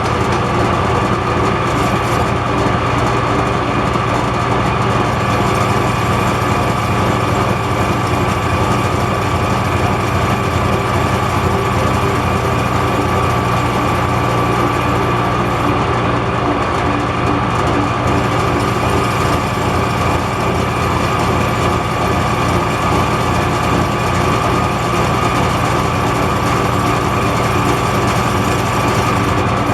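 Metal lathe running steadily, turning down the outside diameter of a shaft with a light cut, a steady hum under a steady high whine.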